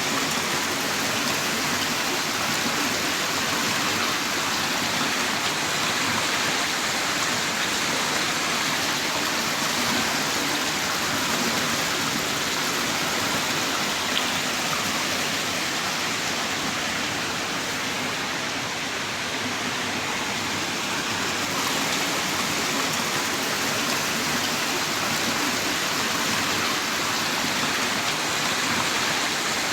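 Heavy rain pouring down in a steady, dense hiss with no breaks.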